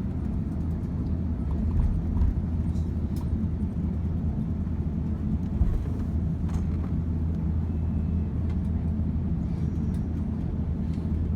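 Steady low rumble of cabin noise inside an Airbus A350-900 airliner, with a couple of brief low thumps about two seconds and five and a half seconds in.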